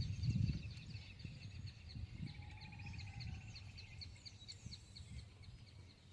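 Birds calling: a repeated high chirp about three times a second, joined by a quicker, lower trill about two seconds in, over a low rumble that fades in the first half second.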